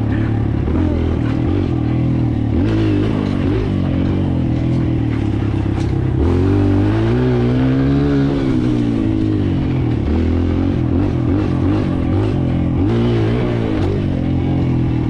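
Kawasaki KLX140L dirt bike's single-cylinder four-stroke engine running as it is ridden, with one long rev up and back down about halfway through and shorter rises and falls in revs around it.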